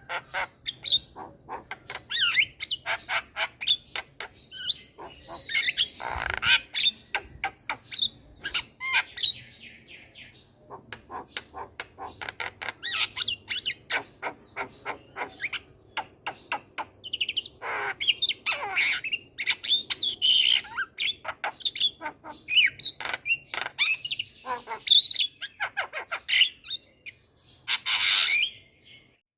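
Javan myna singing a varied, chattering song: rapid runs of clicks mixed with quick whistled notes that glide up and down, and a noisier burst near the end.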